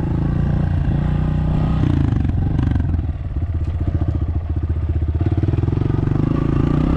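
Dirt bike engine running while ridden, its pitch shifting with the throttle, then settling into a slower, even chugging from about three seconds in.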